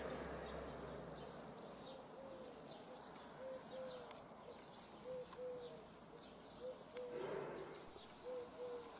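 A bird calling a repeated pair of short, low hooting notes, one pair about every second and a half, with faint chirps of other birds and a brief rush of noise near the end.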